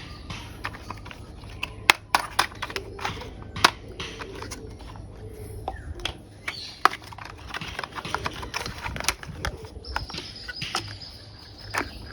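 Plastic toy vehicle parts clicking and clacking irregularly as pieces are handled and fitted together, with a low steady hum underneath.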